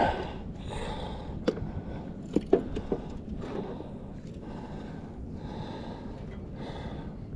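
A knife cutting shad into bait chunks, with four sharp knocks between about one and a half and three seconds in, over steady background noise.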